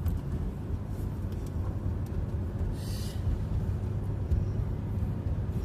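Car driving, heard from inside the cabin: a steady low road and engine rumble, with a short hiss about three seconds in.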